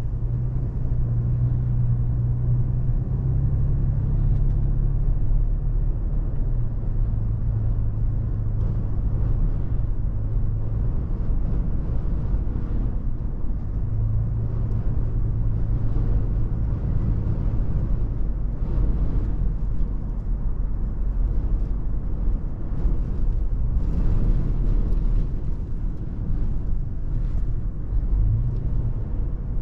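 Toyota FJ Cruiser's 4.0-litre V6 running while driving, a low hum that shifts in pitch with speed, under steady low rumble of road and heavy wind.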